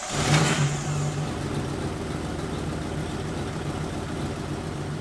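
Toyota 1UZ V8 engine in a 1989 Toyota pickup firing up and flaring briefly, then settling into a steady idle about a second in. The truck starts right away after a no-start fault.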